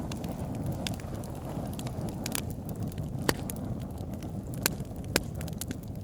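Campfire crackling steadily over a low rumble, with a few louder sharp pops.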